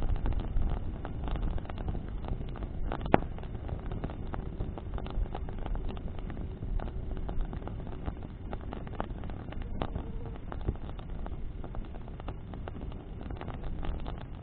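Bonfire of burning branches crackling, with many short sharp pops, the loudest about three seconds in, over a steady low rush of flames and wind.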